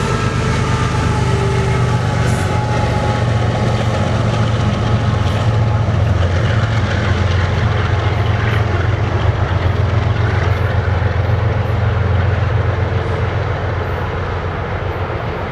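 BNSF mixed freight train passing at a good clip: a steady, loud rumble of wheels on rails, with a faint high ringing in the first couple of seconds. The noise eases slightly near the end.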